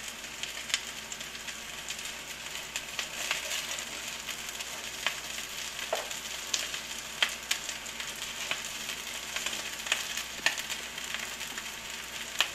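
Chickpea and potato patties shallow-frying in oil in a nonstick pan: a steady sizzle with scattered sharp pops and crackles, and a spatula nudging the patties in the pan.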